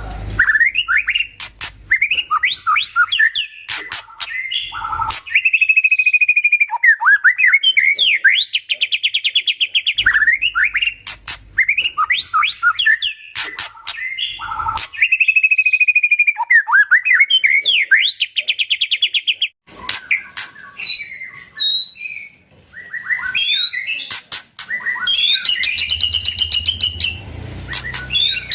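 White-rumped shama singing loudly: rapid varied whistled phrases and sweeps, mixed with sharp clicks and fast ticking rattles. The same sequence of phrases repeats about every ten seconds.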